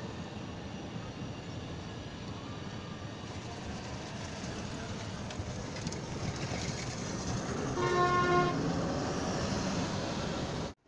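Steady background traffic noise, with a single vehicle horn blast of under a second about eight seconds in. The sound cuts off suddenly just before the end.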